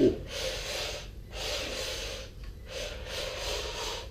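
Kyosho Mini-Z AWD RC drift car driving: its small electric motor and gears whine steadily while the tyres hiss in bursts as throttle is applied and let off, with short breaks between runs. The car is geared to a 1:4.5 pinion-to-spur ratio. A short, loud falling tone sounds right at the start.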